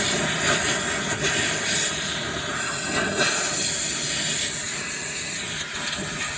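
Compressed-air airline blowing a steady, loud hiss through the seed drill's metering units, clearing out old seed.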